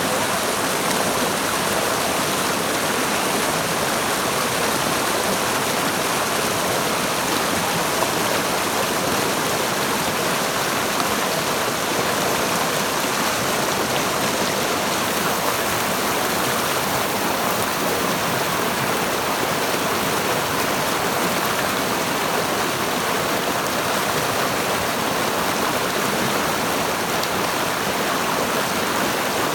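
River water babbling and rushing over rocks, a steady, even flow with no change.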